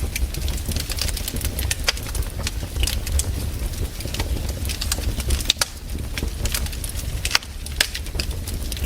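Campfire of burning wood crackling and popping: irregular sharp snaps, several a second, over a low steady rumble.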